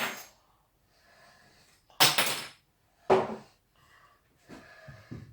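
Gear being handled and set down: three sharp clattering knocks a second or so apart, then a few softer taps near the end.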